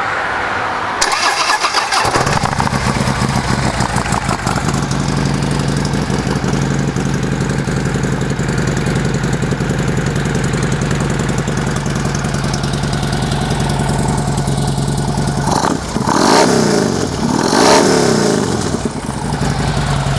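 A 2013 Harley-Davidson Ultra Limited's 103-cubic-inch V-twin starts about a second in and idles through its 2-into-1 exhaust. Near the end it is revved twice, each rev rising and falling, before settling back to idle.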